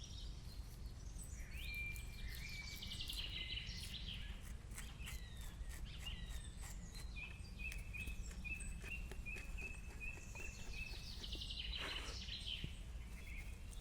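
Wild birds calling and chirping over a steady low background hum, with a run of evenly repeated chirps about two a second in the middle.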